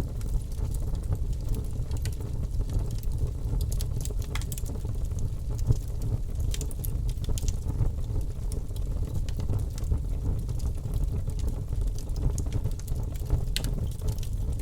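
Logs burning in a fireplace: a steady low rumble of flames with scattered sharp crackles and pops from the burning wood, a few louder snaps among them.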